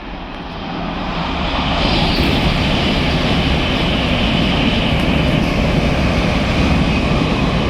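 A train running through the station: a loud rush of wheels and motors that builds over the first two seconds and then holds steady, with a high whine falling slowly in pitch.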